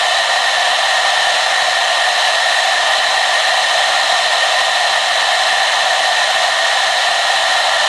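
Hair dryer running steadily, a constant airy whoosh with a hum carried in the upper mids and no change in speed.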